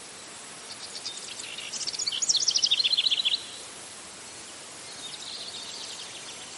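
Birds-and-insects ambience: a steady hiss of insects under a songbird singing a fast run of high, rapid notes that grows louder and stops abruptly about halfway through, followed by a fainter burst of song near the end.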